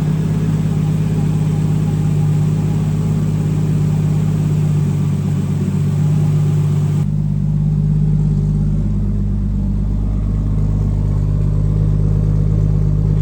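Nissan Skyline's freshly rebuilt RB straight-six running steadily on one of its first starts after the rebuild. The hiss above the engine note drops away abruptly about seven seconds in.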